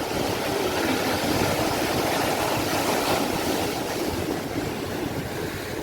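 Sea waves washing onto a shore: a steady rush of surf that swells a little in the first seconds, then eases.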